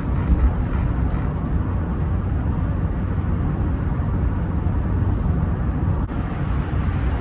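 Steady low rumble of road and engine noise heard inside the cabin of a moving Rolls-Royce Silver Spirit III.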